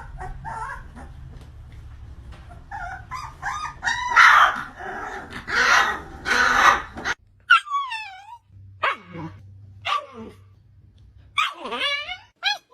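Puppies yipping and whining. High calls run over a low hum for the first half, then after a sudden change come short separate whines that slide down in pitch, about one a second.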